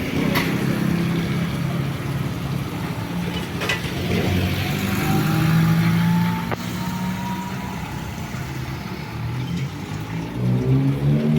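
Road vehicle engine running while driving, its low hum shifting in pitch with speed, with a faint rising whine in the middle and a couple of light clicks.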